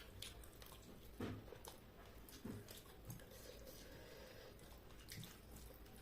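Faint eating sounds: chewing and soft mouth smacks, with a few scattered small clicks over a low room hum.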